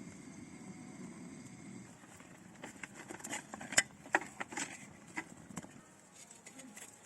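A quick cluster of light clicks and knocks in the middle, over a faint low hum that stops about two seconds in.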